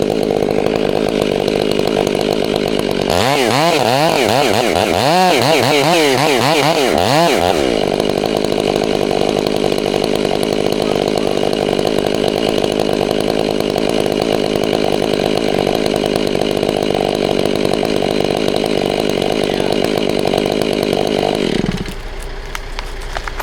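Gas chainsaw running at high throttle cutting through the tree, its pitch swinging up and down several times between about three and eight seconds in, then holding steady. Near the end the engine comes off throttle and its pitch and loudness drop.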